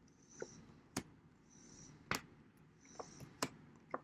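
Tarot cards being handled on a table: a few sharp taps and clicks at uneven intervals, with soft brushing sounds between them.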